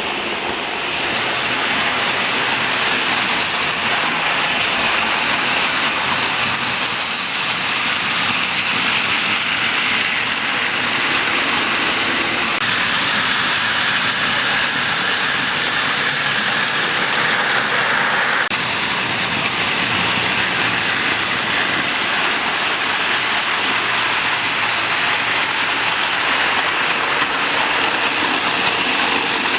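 Model train rolling along the track: a steady rushing rumble of wheels and motor with no clear beat.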